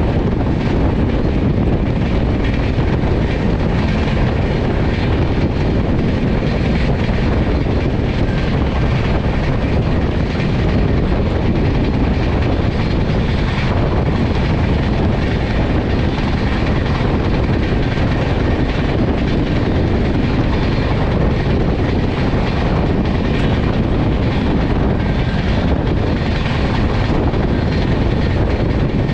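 Passenger train running at speed: a steady, even rumble of wheels on the rails and the moving coaches.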